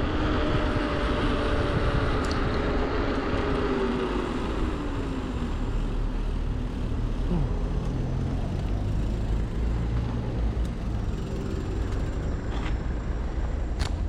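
Steady wind rush and road traffic heard from a moving bicycle on a city road. A motor's tone falls slowly in pitch over the first few seconds.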